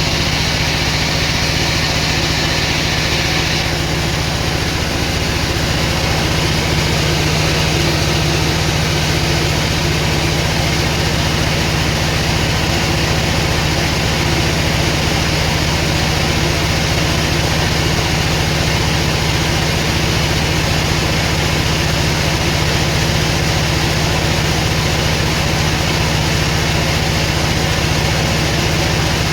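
Sawmill machinery running steadily: a constant low hum under a broad mechanical hiss, the higher part of the hiss easing off about four seconds in.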